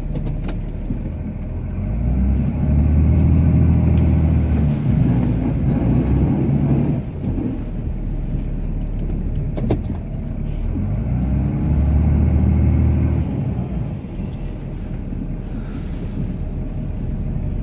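Cummins diesel engine of a Ram pickup working a snow plow, heard from inside the cab: it revs up and back down twice, about two seconds in and again around ten seconds in, over a steady low rumble.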